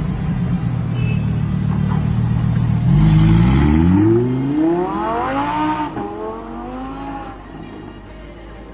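Supercar engine running low and steady, then revving hard about three seconds in as the car accelerates. The pitch climbs for a couple of seconds, then drops and fades away as the car pulls off.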